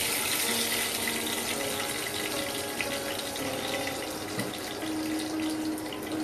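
Cashew nuts sizzling in hot oil in a frying pan: a steady hiss with scattered small crackles.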